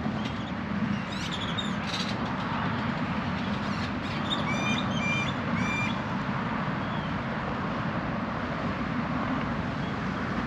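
A bird calls three times in quick succession about halfway through, with a few fainter chirps earlier, over a steady rushing background noise.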